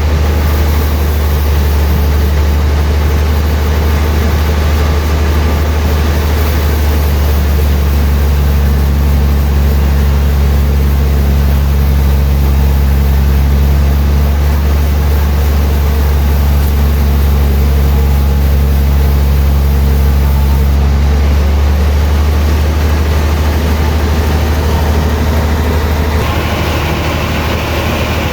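Sawmill's engine running steadily with a deep, even hum. Near the end the pitch shifts slightly and a higher hiss joins in.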